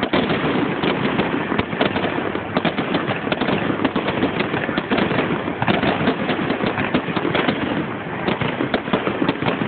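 Fireworks display in full swing: a dense, continuous barrage of bangs and crackling with no pause.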